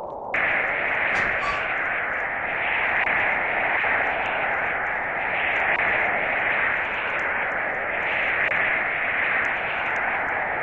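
Steady hissing noise, like static, that comes on suddenly just after the start and holds even.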